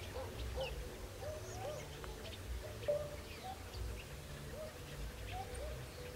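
Birds calling: many short, low hooting notes, each rising and falling, repeat irregularly, with faint higher chirps over them.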